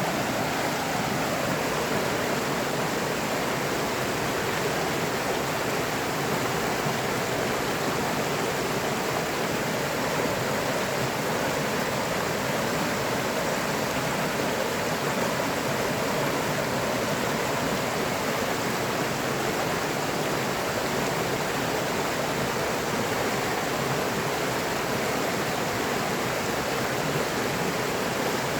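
River water flowing steadily, an even rushing sound that does not change or break.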